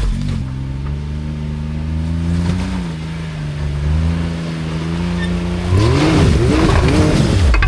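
Side-by-side UTV engine running at low revs while crawling over rocks, then revved in several quick rising-and-falling bursts near the end.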